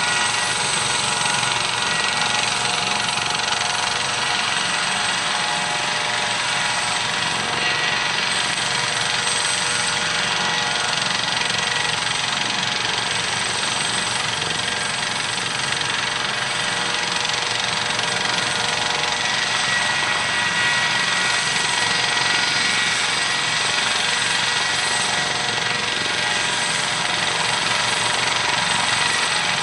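Eurocopter AS565K2 Panther helicopter running steadily: turbine whine with several high held tones over the noise of the rotors, with no change in level or pitch.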